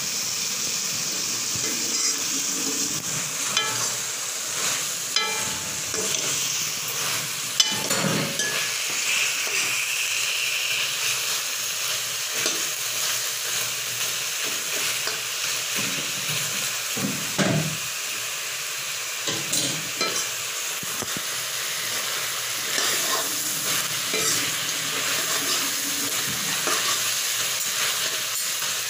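Chicken pieces sizzling as they fry in a wok, stirred with a metal ladle that scrapes and knocks against the pan now and then.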